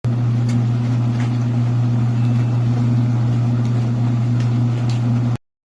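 Mini portable washing machine's motor running with a steady low hum, which cuts off suddenly after about five seconds.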